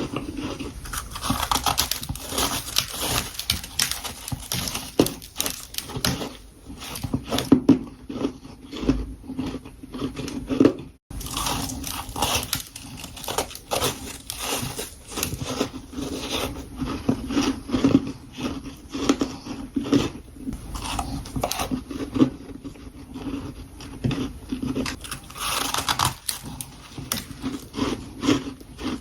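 Close-miked crunching bites into powdery freezer frost, one crisp crunch after another. There is a brief cut to silence about a third of the way through.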